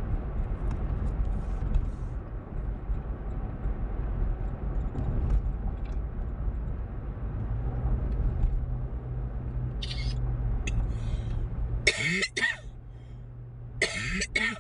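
Steady low road and engine rumble inside a moving car's cabin, with a low hum joining about halfway through. Near the end come two short, harsh bursts of noise.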